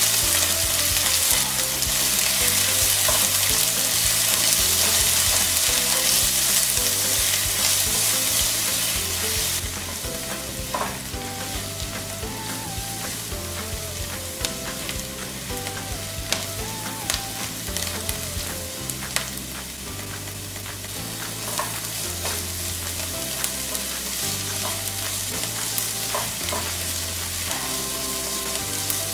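Chopped onions sizzling in hot oil in a nonstick frying pan, stirred and scraped with a silicone spatula; the sizzle is loudest for about the first ten seconds, just after the onions go in, then settles lower as they soften. Soft background music plays underneath.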